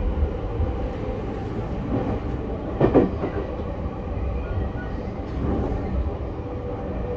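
Running sound inside a JR East E231 series 1000 commuter car under way: a steady low rumble of wheels on rail, with one louder knock about three seconds in.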